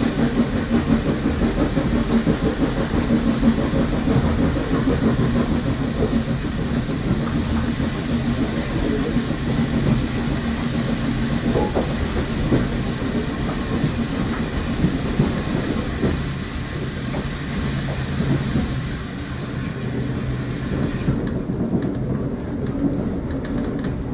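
Heritage railway coach running along the line, heard from inside: a steady rumble of wheels on the track with rail-joint clatter, and a run of sharper clicks near the end.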